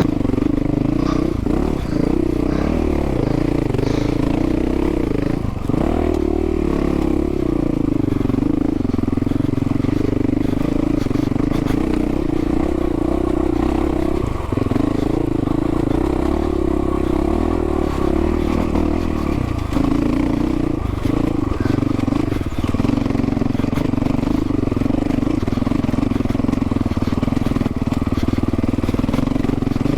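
Dual-sport motorcycle engine running under load at a steady pitch while riding a dirt trail, with a few brief dips as the throttle eases off.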